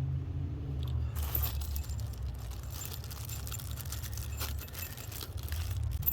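Jingling and scraping handling noise with scattered small clicks over a low steady rumble.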